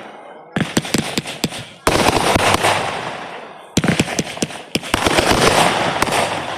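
Fireworks going off in rapid volleys of bangs and crackling, with four sudden new bursts about half a second, two, four and five seconds in, each trailing off.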